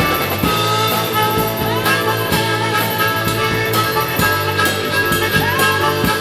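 Live rock band playing an instrumental break with drums on a steady beat, bass, and a lead instrument bending its notes.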